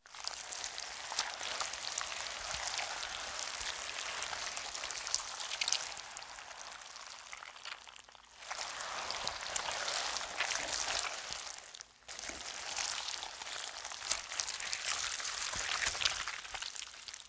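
Designed giant-snake sound effect: a hiss with a crackle in it, in three long stretches separated by brief dips at about eight and twelve seconds.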